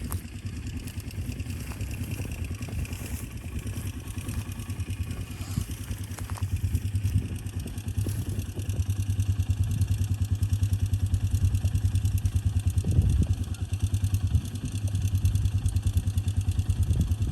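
Four-wheeler (ATV) engine running with a steady low pulse, growing louder about halfway through.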